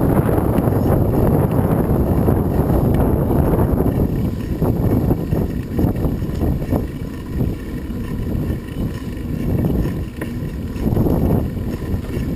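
Wind buffeting the microphone while riding, over rumbling vehicle and road noise that rises and falls.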